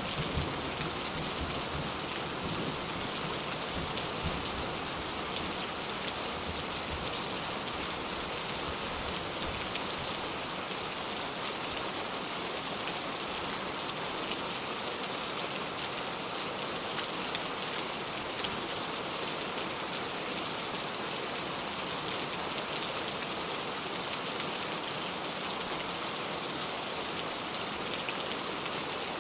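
Steady rain falling, with a dense even patter of drops. A low rumble fades away over the first several seconds.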